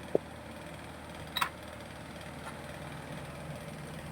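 A steady low mechanical hum with two brief clicks, one just after the start and one about a second and a half in.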